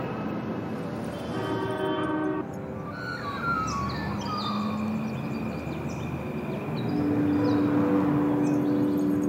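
Soundtrack ambience of a steady rumbling noise. A held chord of tones cuts off about two and a half seconds in, short high chirps follow in the middle, and a sustained low drone comes in near the end.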